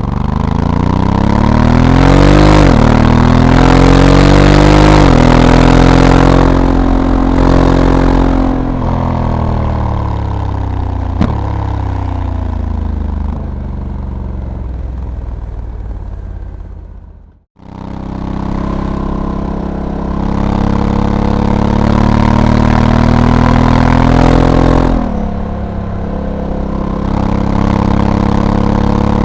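Honda Africa Twin's 1084 cc parallel-twin engine pulling hard, its pitch climbing and dropping back at each of two quick automatic DCT upshifts early on, then running steadier and easing off. It cuts out abruptly about 17 seconds in, comes back running steadily, and drops in pitch again near 25 seconds.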